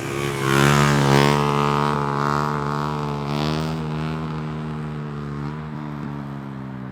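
Dirt bike engine running at steady revs. It swells about a second in, then holds close to one pitch and slowly eases off.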